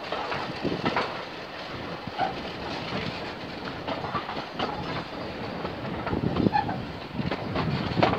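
Railway passenger coach rolling slowly along the track, with the rumble of the moving train and irregular sharp knocks from the wheels passing over rail joints.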